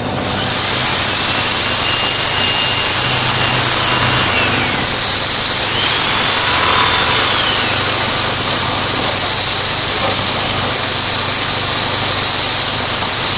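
A machine tool running at speed, with a loud, steady, high-pitched whine over mechanical noise; the sound dips briefly about four and a half seconds in.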